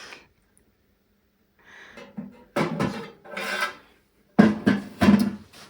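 Loose metal motorcycle parts being handled and set down: several sharp knocks, the loudest two close together near the end, with scraping and rubbing between them and a short metallic ring.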